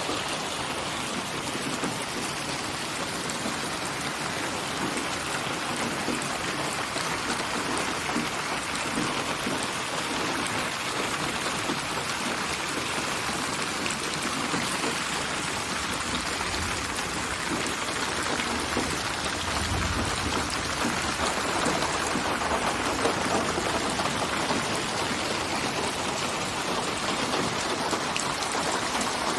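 Steady, even rain, built from many rain recordings and panned around the listener with 8D (HRTF) spatial surround. A brief low rumble comes about two-thirds of the way through.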